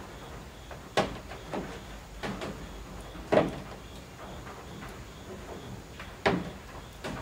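Rain on a roof, with heavy drops falling from the eaves and striking with sharp, irregular knocks, about six in all, over a soft steady patter.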